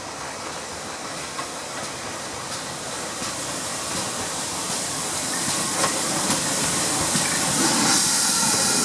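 Steam locomotive drawing closer, with a hiss of steam that grows steadily louder.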